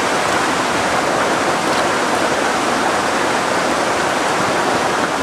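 Steady, loud rushing of water with no breaks.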